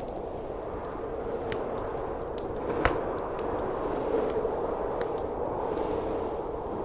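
Wood fire crackling in a fireplace, with scattered small snaps and one louder pop about three seconds in, over a steady blizzard wind.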